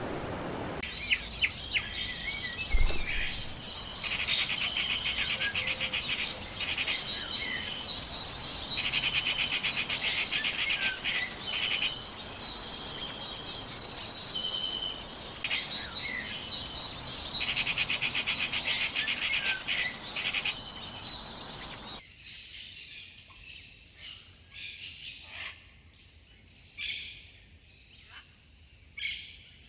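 Tropical forest ambience: a steady high-pitched insect trill with birds calling over it. About twenty-two seconds in it cuts abruptly to a quieter scene of scattered short bird chirps.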